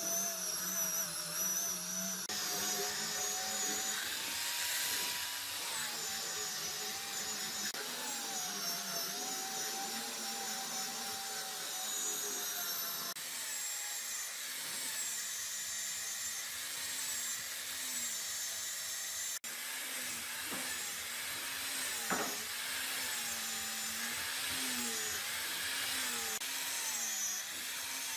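A high-speed handheld power tool's electric motor running continuously while working wood, its pitch repeatedly dipping and recovering as the tool is pressed in and eased off.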